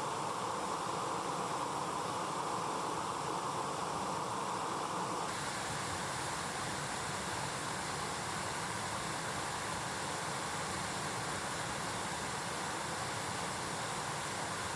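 Mountain stream rushing: a steady wash of flowing water that changes suddenly about five seconds in to a brighter, hissier rush.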